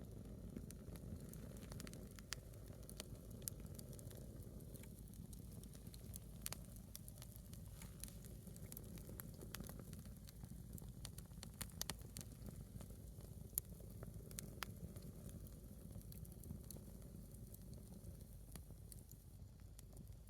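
Small wood fire of a single firewood log burning, with faint irregular crackles and pops over a low steady background noise.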